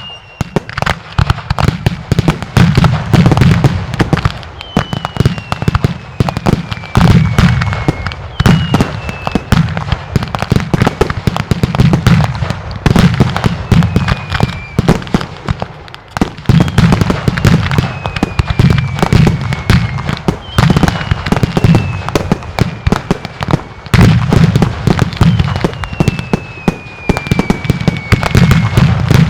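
Mascletà fireworks: salutes and firecracker reports going off in dense, rapid volleys that swell in waves every few seconds. Over each wave a whistle falls in pitch.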